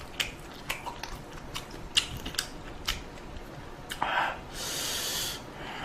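Close-miked eating: a string of sharp wet mouth clicks from chewing food, then a short noisy burst about four seconds in and a brief high hissing sound just after, like a slurp of noodles.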